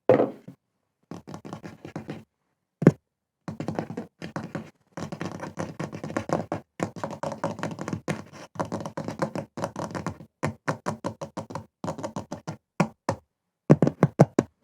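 Fingers tapping on objects for ASMR: quick runs of light taps with short pauses, a single louder knock about three seconds in, and a few louder knocks near the end.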